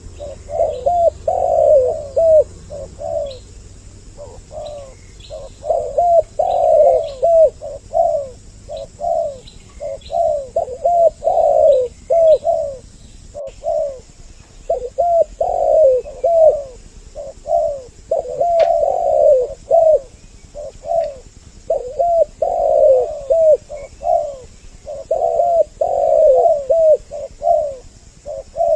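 Spotted doves (tekukur) cooing, two voices overlapping in repeated phrases of short rolling coos with brief pauses between them. The recording is a 'double voice' lure call used to draw wild males and females in.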